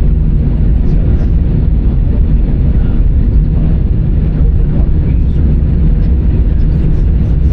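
Airbus A319 cabin noise while taxiing after landing: a steady low rumble and hum from the idling engines and the airframe rolling along the taxiway.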